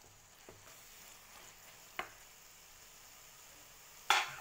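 Spinach and fried paneer sizzling faintly in a pan as a spatula stirs them, with light taps of the spatula about half a second and two seconds in. Near the end comes one louder, sharp knock, the loudest sound here.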